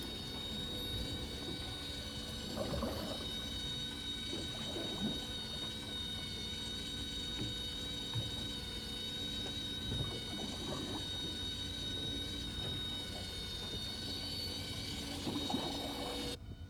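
A small motor running with a steady high whine, cutting off abruptly near the end, over scattered knocks and splashy noise.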